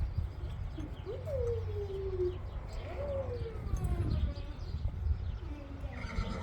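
Puppies whining: long high whimpers that rise briefly and then slide down in pitch, three times, over a steady low rumble.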